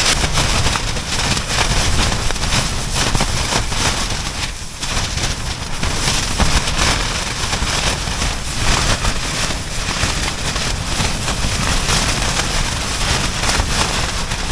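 Gale-force wind battering a Dyneema composite (DCF) tent, heard from inside: the fabric flaps and crackles without letup, with wind-driven snow hitting it. The wind eases briefly about four to five seconds in.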